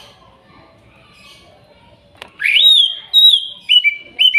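Green leafbird (cucak ijo) singing: after faint background chirping, a loud rising whistle about halfway in, then a run of clear whistled notes stepping down in pitch.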